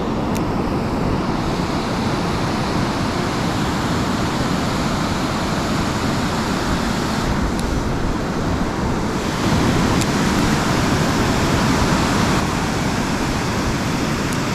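Steady rush of fast-flowing river water below a dam, growing a little louder for a few seconds past the middle.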